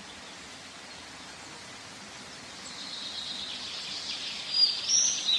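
Outdoor ambience: a steady hiss, with a high, thin sound swelling from about halfway through, then a few short, sharp bird chirps near the end.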